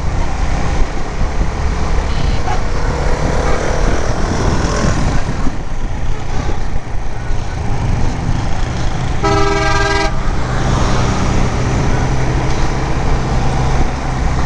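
Suzuki GS150 motorcycle's single-cylinder engine running at road speed, with wind rushing over the microphone. About nine seconds in, a vehicle horn sounds once for under a second.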